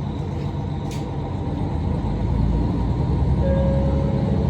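Donan Isaribi Railway KiHa 40 diesel railcar running, a steady low rumble heard from on board that grows louder about two seconds in. A brief high click comes about a second in.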